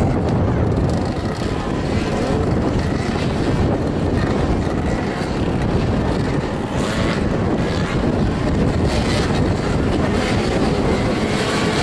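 Motoball motorcycles' engines running and revving on the pitch, with a steady rush of noise underneath.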